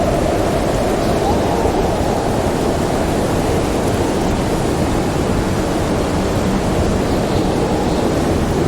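Steady roar of storm wind, with faint howling tones rising and falling in the first second or so.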